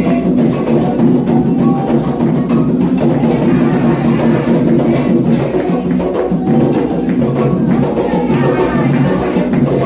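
Candomblé ritual drumming: atabaque hand drums playing a steady toque, with a struck bell keeping time and voices singing over it.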